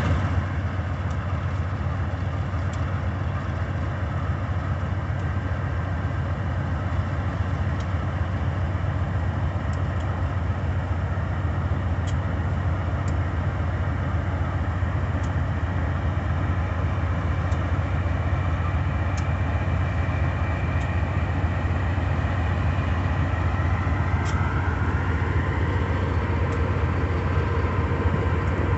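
Diesel locomotive engine running with a steady, deep drone, faint metallic ticks over it; a higher tone rises about three quarters of the way through.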